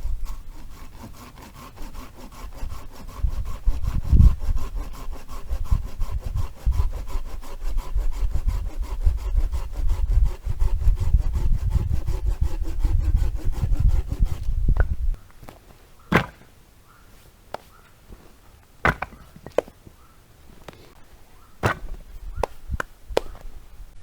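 Wood being sawn by hand in steady, rhythmic strokes for about fifteen seconds. The sawing then stops and is followed by a few sharp, separate wooden knocks and clacks.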